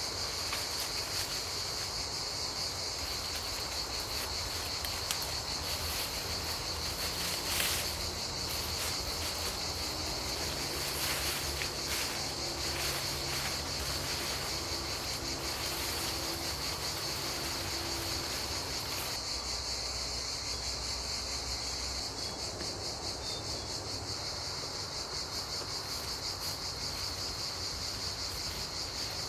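Insects trilling steadily in one continuous high-pitched chorus, with a few short clicks or knocks about a third of the way in.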